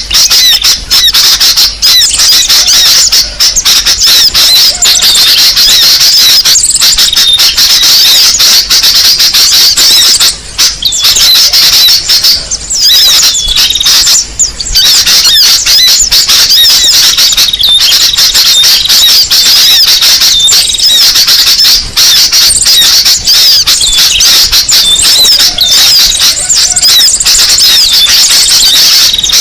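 Bird-lure call recording: a dense, unbroken mass of small birds chirping and twittering, high-pitched, with a few brief drops around ten to fifteen seconds in.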